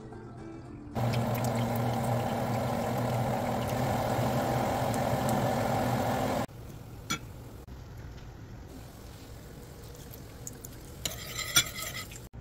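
Battered silverfish patties frying in a pan of hot oil: a steady sizzle that starts about a second in and cuts off suddenly after about five seconds. A few sharp clinks follow near the end.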